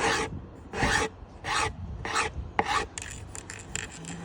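Hand planer drawn in repeated strokes along the edge of a worktop, chamfering it. About five strokes come in a steady rhythm, then quicker, shorter ones follow near the end.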